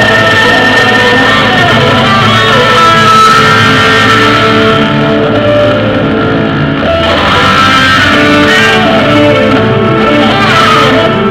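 Loud rock music with electric guitar playing sustained, bending lead notes over a steady bass and band.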